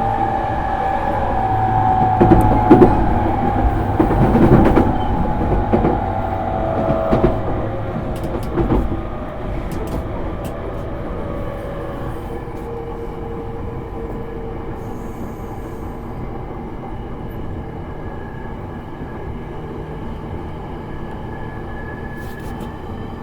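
Running sound inside an E231-series electric train's motor car: the traction inverter and motor whine eases down in pitch while the wheels clack sharply over rail joints for several seconds. From about ten seconds in it settles to a quieter, steady hum.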